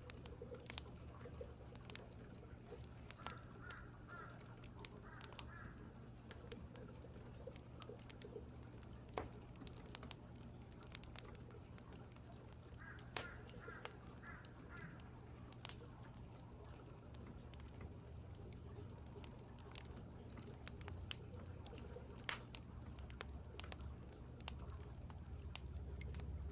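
Crows cawing in short series, once about three seconds in and again around thirteen seconds, over scattered sharp clicks and a low steady hum.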